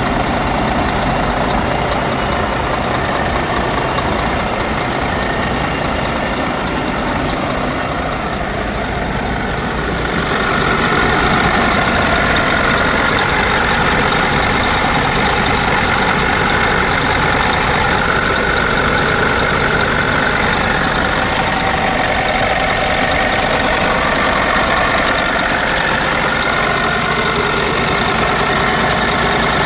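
Scania P400 truck's DC13 inline-six diesel engine running steadily at idle. About ten seconds in, it gets slightly louder, with more hiss on top.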